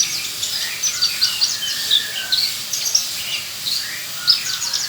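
Horsfield's bushlark (beranjangan) singing a fast, unbroken stream of short, varied high chirps and trills.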